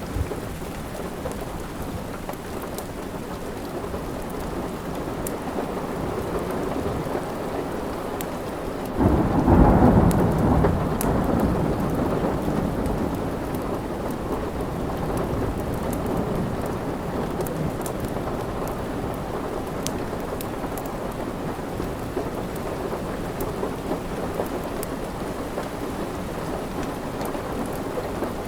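Steady rain with a roll of thunder that breaks out suddenly about nine seconds in and rumbles away over several seconds. Sharp little crackles of a wood fire pop now and then over the rain.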